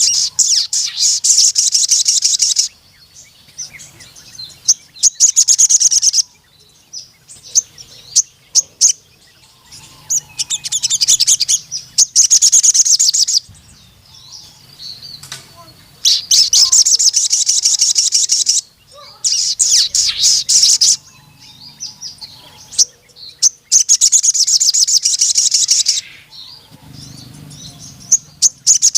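A sogon sunbird singing in repeated bouts of rapid, high-pitched chattering song, each bout lasting two to three seconds with short pauses between, the long 'nembak' song of a bird in full song.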